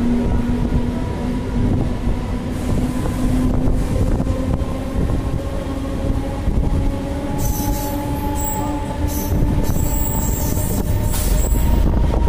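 Passenger train running out of a station, heard from on board: a steady rumble with a low hum. From about seven seconds in come spurts of high-pitched wheel squeal, and wind buffets the microphone near the end.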